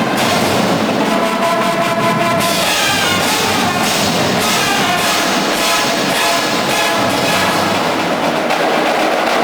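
Marching band playing: brass ensemble with marching percussion keeping a steady beat.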